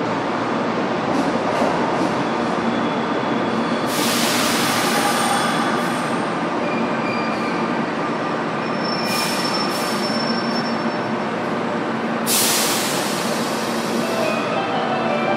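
Sanyo Electric Railway train running through the underground platform at Itayado: a steady rolling noise with faint high-pitched wheel squeals, broken by three short sharp hisses about four, nine and twelve seconds in.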